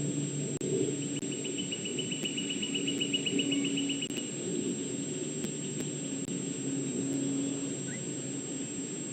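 Outdoor ambience: a steady low rumble with a faint hum, and about a second in a rapid high trill of ticks lasting some three seconds.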